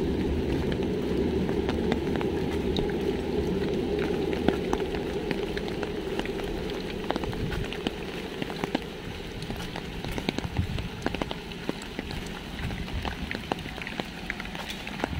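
Rain falling, with drops pattering as many small, scattered ticks. A low rumble under it fades out about halfway through.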